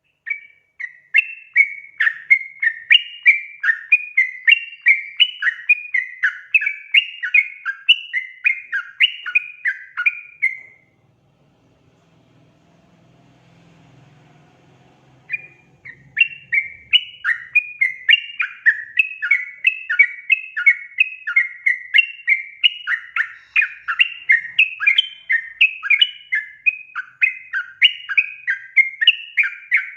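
Yellow-vented bulbul (trucukan) singing a fast, bubbly chattering song of repeated notes, about two phrases a second. It breaks off about eleven seconds in and starts again about four seconds later.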